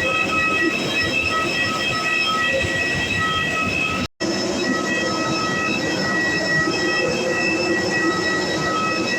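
Aircraft jet engines whining steadily over a low rumble, several high tones held at once. The sound cuts out briefly a little after four seconds.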